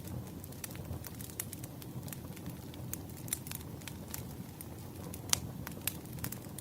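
Wood fire crackling, with irregular sharp pops and snaps over a low, steady rumble; one louder pop a little after five seconds in.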